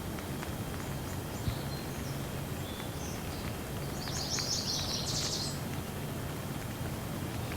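Light rain falling steadily over a low rumble, with a few drips ticking. A bird chirps in a short, rapid series about four seconds in, with fainter chirps before it.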